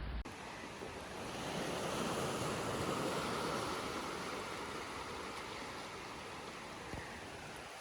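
Sea waves washing in: one swell of rushing water builds about two seconds in and slowly fades away.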